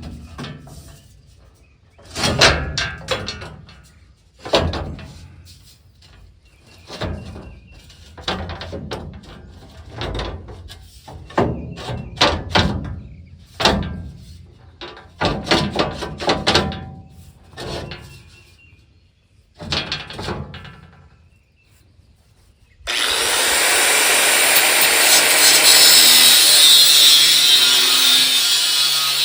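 Irregular metal clanks and knocks with a ringing tail, a couple of seconds apart. About 23 seconds in, an angle grinder with a flap wheel starts and grinds steadily and loudly, taking rust and paint off steel.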